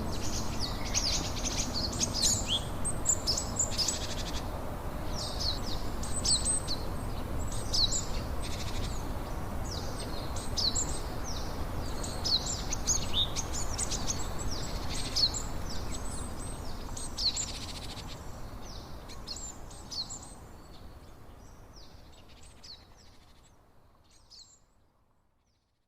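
Small songbirds chirping in quick, repeated short calls over a steady low background noise. The whole sound fades out gradually over the last several seconds.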